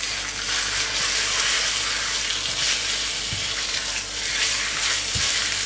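Marinated chicken breast pieces sizzling in hot oil in a nonstick wok as they are stir-fried with a spatula: a steady, high hiss of frying, with two soft thumps in the second half.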